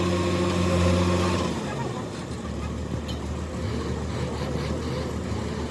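An engine running with a steady hum; about a second and a half in the tone changes to a lower, rougher running sound.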